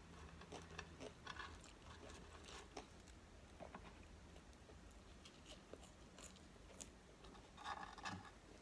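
Faint close-miked eating: chewing and biting with small wet clicks and crackles, and a louder crunch or rustle about eight seconds in.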